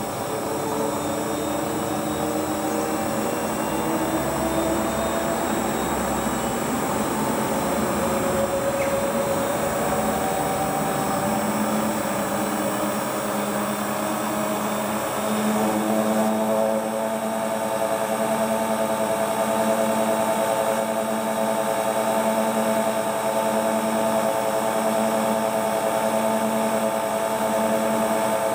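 Hotpoint Ultima WT960 washing machine's motor and drum, driven by a newly replaced belt, spinning up. The whine rises in pitch over the first half, then holds at a steady spin speed.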